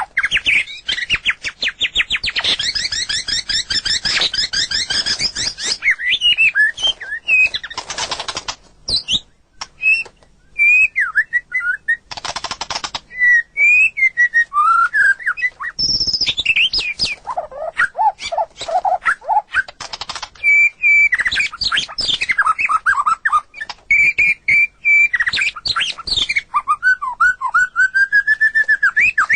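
White-rumped shama singing a long, varied song: a fast rapid trill in the first few seconds, then clear whistles sliding up and down, short harsh rasping notes, and a run of lower whistled notes in the middle.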